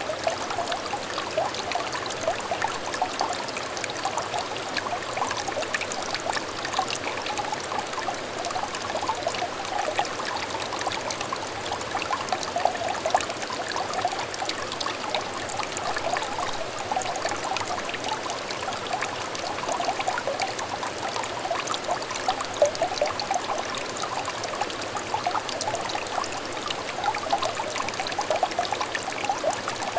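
Small clear stream trickling and babbling steadily, with a dense, even patter of little bubbling splashes.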